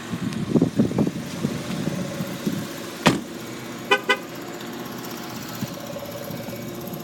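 A car horn gives two short toots, the quick double chirp of a car being locked. About a second before it there is a single sharp knock, and some irregular handling knocks come near the start, over a faint steady hum.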